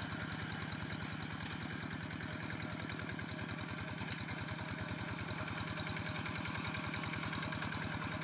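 Quick G3000 hand tractor's engine running steadily at idle with an even beat of firing pulses.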